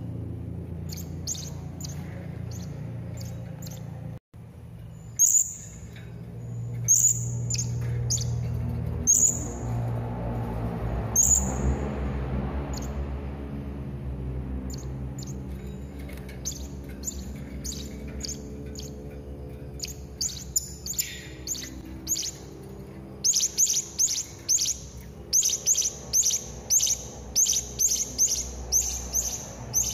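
Serindit (hanging parrot) calling in short, high, thin chirps. The chirps are scattered at first, then come in a fast, even run of about two a second in the last several seconds, over a low steady background hum.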